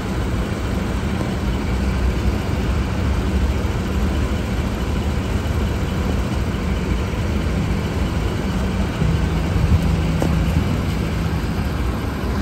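Engine of a parked sheriff's SUV idling, a steady low hum.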